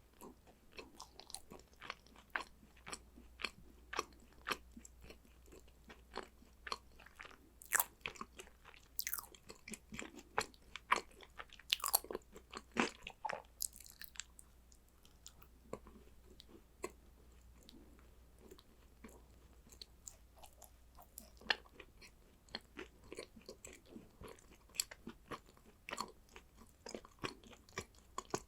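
A person biting and chewing crunchy chocolate snacks: a steady run of crisp crunches, loudest for several seconds about a third of the way through.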